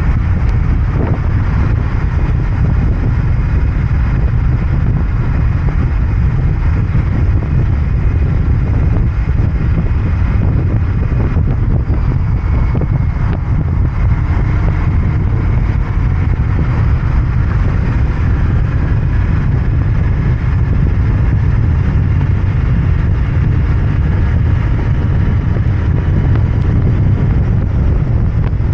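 Royal Enfield Interceptor 650's 648 cc parallel-twin engine and exhaust running steadily under way.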